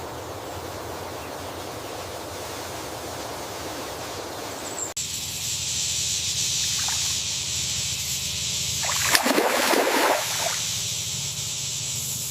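Water noise, sloshing and trickling, that changes abruptly about five seconds in to a brighter hiss, with a louder rushing swell a few seconds before the end.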